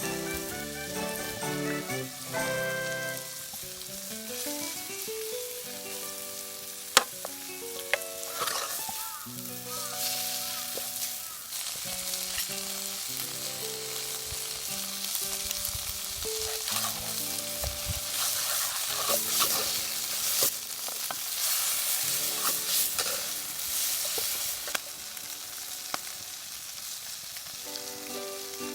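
Food frying and sizzling in a pan over a wood fire, the sizzle swelling twice, with a sharp click about seven seconds in, under light background music.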